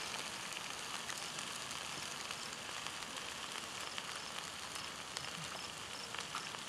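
Hash browns sizzling in a frying pan over a wood fire: a steady soft hiss with a few faint crackles.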